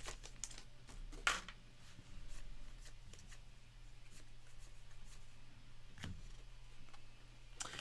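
Trading cards being handled and flipped through: faint soft slides and light clicks of card stock, with one sharper tap about a second in, over a low steady hum.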